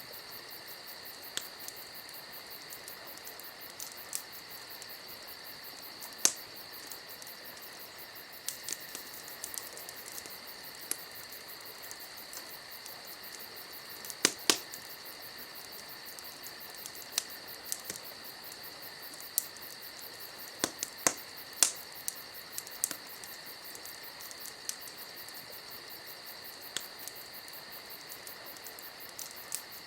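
Wood fire crackling, with irregular sharp pops and snaps, a few of them much louder than the rest, over a steady high-pitched trill that runs throughout.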